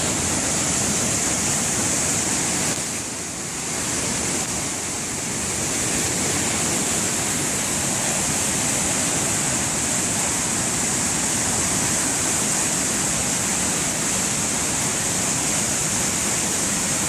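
Waterfall pouring close by, a loud, steady rush of water that dips briefly about three seconds in.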